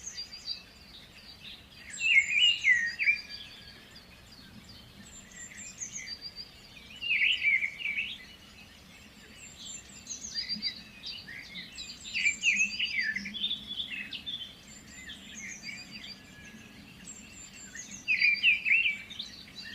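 Small songbird singing: bursts of fast, warbling chirps every few seconds, with thin high notes between the phrases.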